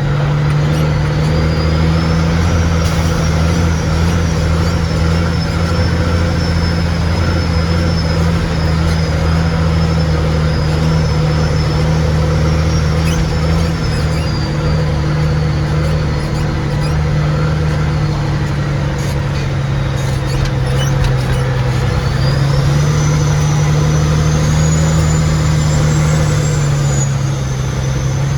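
Log truck's diesel engine running steadily, a continuous drone with a high whine that climbs in pitch about three-quarters of the way through.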